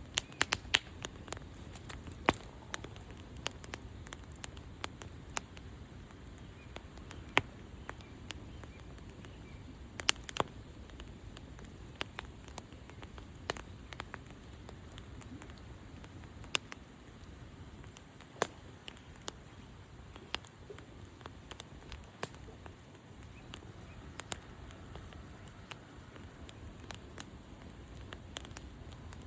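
Campfire burning, with irregular sharp crackles and pops over a low steady hiss of the flames.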